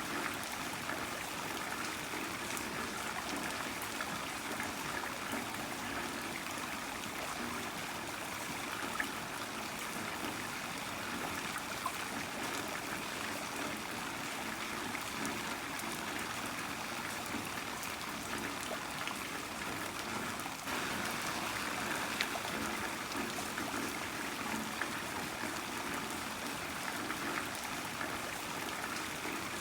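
Heavy rain falling steadily, a dense even hiss flecked with scattered louder drops. It grows slightly louder about two-thirds of the way through.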